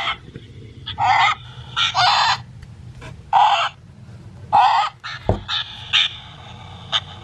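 Sound box of a Wild Republic plush scarlet macaw playing its recorded macaw call through the toy's small speaker: a run of harsh squawks about a second apart. There is a single low thump about five seconds in.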